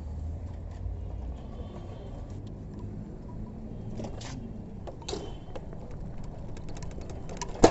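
A steady low rumble of road traffic, with scattered light clicks and one sharp knock just before the end.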